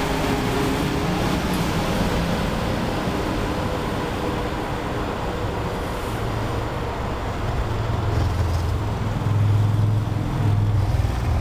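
Amtrak Acela Express electric trainset passing close at speed and pulling away: a steady rush of wheels and air fades over the first few seconds, and a low rumble grows stronger in the second half.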